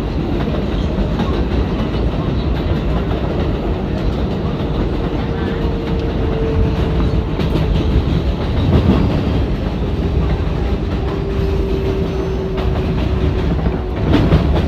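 Inside a moving R188 subway car on the 7 line: a steady rumble of wheels on rail. A faint level tone comes and goes twice, and louder jolts come near the middle and again near the end.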